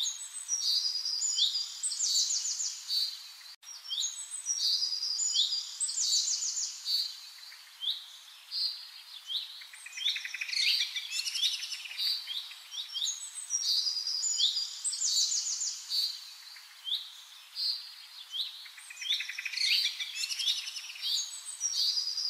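Small birds chirping and twittering without pause: many quick high chirps and fast trills.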